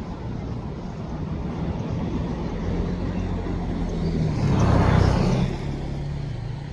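A motor vehicle's engine hum and road noise; a vehicle passes close by, loudest about five seconds in, its engine note dropping in pitch as it goes past.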